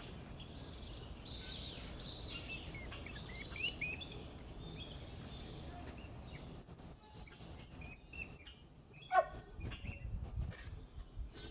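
Birds chirping and calling over a low background rumble: a run of quick high chirps in the first few seconds, then one louder call about nine seconds in.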